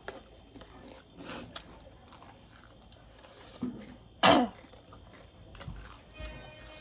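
A person eating coughs once, sharply, about four seconds in, with softer chewing and mouth noises before it.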